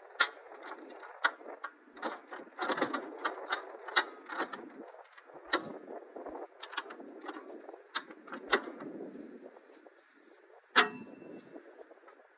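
Hands-on work with metal parts and tools: irregular sharp clinks and knocks over scraping and rustling, with the loudest knock near the end.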